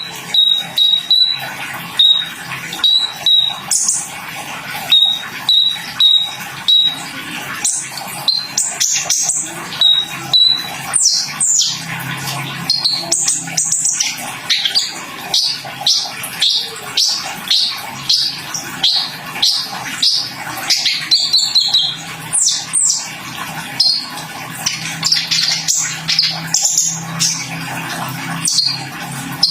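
Kolibri ninja sunbird singing. A run of short, high, evenly repeated chirps gives way after about ten seconds to a fast, varied song of sweeping chirps and trills. A faint low hum runs underneath.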